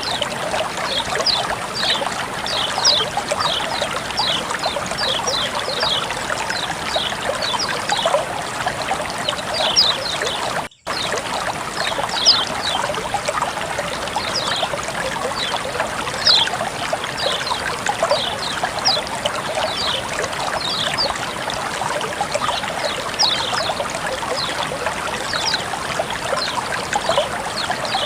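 Water flowing and trickling steadily, with many quick high plinks of splashing droplets over the running sound. It cuts out briefly about ten seconds in, then carries on.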